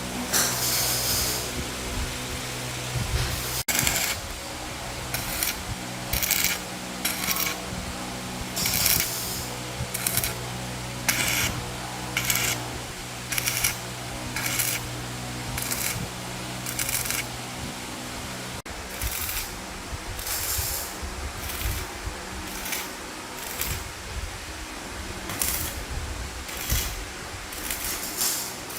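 Metalworking in a workshop: short metallic strokes, roughly one a second and irregular, over a steady low hum.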